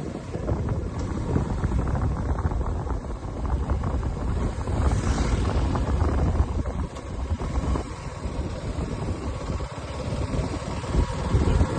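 Wind buffeting the microphone: a low, irregular rumbling noise.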